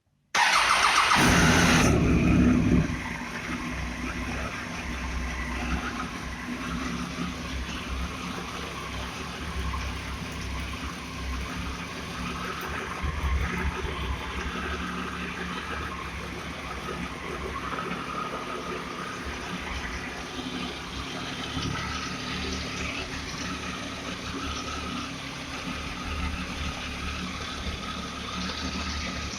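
Triumph Tiger 800 XC's three-cylinder engine starting from cold: it fires up loudly about half a second in, then within a couple of seconds settles into a steady idle.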